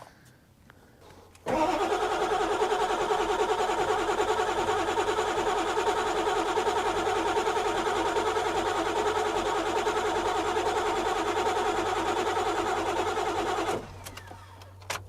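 1997 Ford F350's 7.3 Power Stroke V8 turbo diesel cranked over by its new starter: a steady, evenly pulsing cranking that starts about a second and a half in, runs for about twelve seconds, then stops suddenly.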